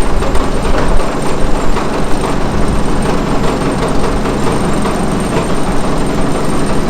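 A heavy engine running steadily and loudly, with an even low hum and a rough churning noise over it.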